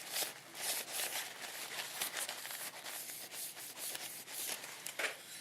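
Quick back-and-forth hand rubbing strokes on the painted plastic body of a scale model car, about two to three strokes a second, as its finish is worked toward a shine.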